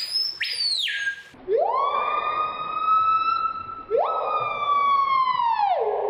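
A bird giving siren-like calls: first a brief high whistle that falls in pitch, then two long wails, each rising quickly and holding steady. The second wail drops back down near the end.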